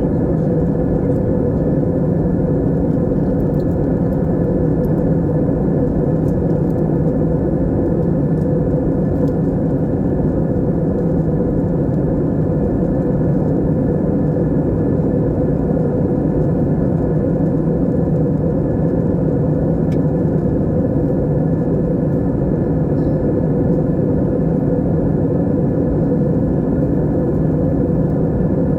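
Steady, even drone of an airplane in flight as heard inside the passenger cabin: engine and airflow noise with a low hum, unchanging throughout.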